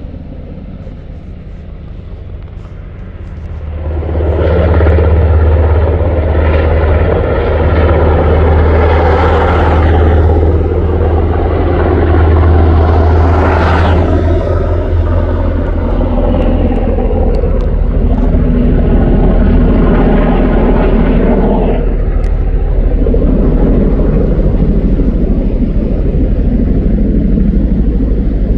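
Firefighting helicopter flying close by, its rotor and engine noise growing loud about four seconds in and easing somewhat after about twenty-two seconds.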